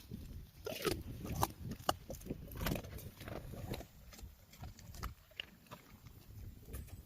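A Cane Corso chewing and eating noisily: irregular sharp clicks and wet smacks of its jaws and teeth, several a second, over low mouth noise.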